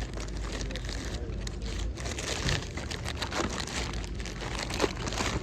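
Rustling and crinkling handling noise with many small clicks, over an indistinct background of distant voices and a low rumble.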